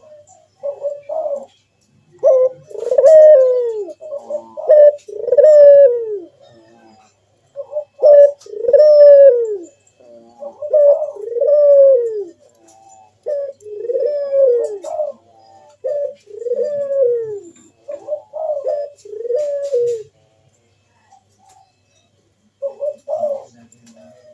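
Puter dove (ringneck dove) cooing in its full song: each phrase is a few quick short notes followed by a long, loud coo that falls in pitch, repeated about eight times. It pauses for a few seconds, then starts again with short notes near the end.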